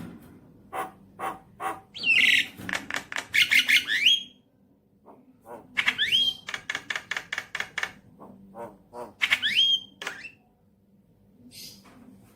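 Javan myna singing: three bursts of rapid harsh clicking, rattling notes, each ending in a rising whistle, with short pauses between them.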